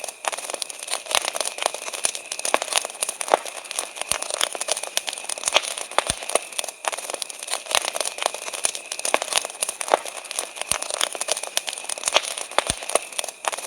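Wood campfire crackling, with dense irregular snaps and pops of burning wood and a few louder cracks now and then.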